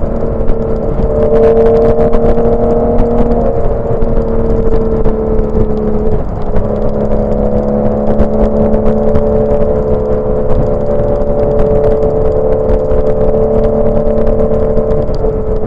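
Porsche 987 Boxster's flat-six DOHC VarioCam engine pulling steadily under way, its note holding at a nearly constant pitch with a brief break about six seconds in, over steady road noise.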